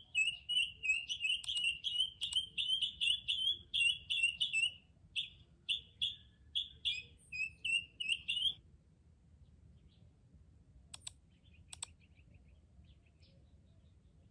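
A bird's high, repeated chirping call, several notes a second at first and then more spaced, that stops suddenly a little past halfway. Two sharp clicks follow a few seconds later.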